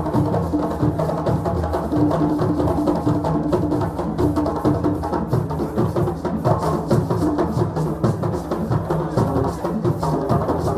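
West African celebration drumming: several drums played together in a steady, unbroken rhythm of deep and higher-pitched strokes.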